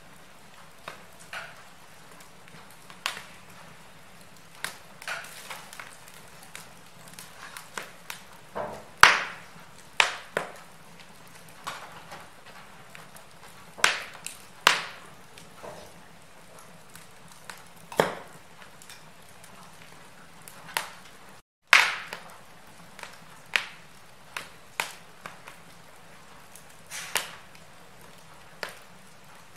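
Wood fire crackling in a fireplace: irregular sharp pops and snaps, a few much louder than the rest, over a faint steady hiss, with a split-second dropout about three quarters of the way through.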